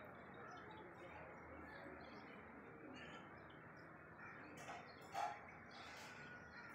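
Faint outdoor ambience: birds chirping over a steady low background noise, with one brief sharp sound a little past five seconds in.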